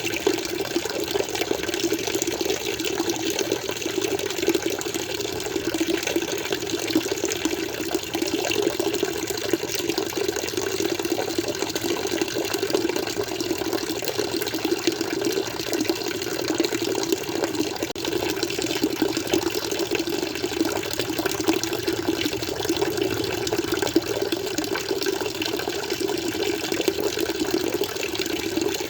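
Water flowing steadily, an even, unbroken rushing sound with no pauses or changes.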